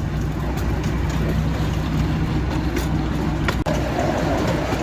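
Park train running along its track, a steady low rumble heard from aboard one of its cars, with a brief dropout about three and a half seconds in.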